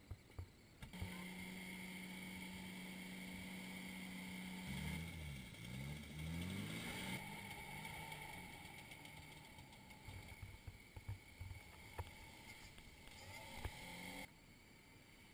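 Faint off-road 4x4 engines running, first a steady engine note, then revving up and down as they work through deep mud. The sound changes abruptly several times.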